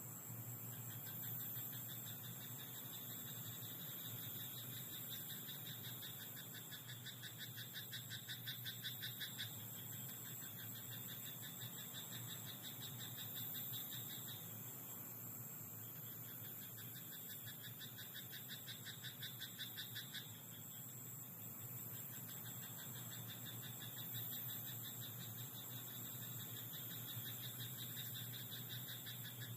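Frogs croaking in rapid pulsed trills, in long bouts with short breaks between them, over a faint low steady hum.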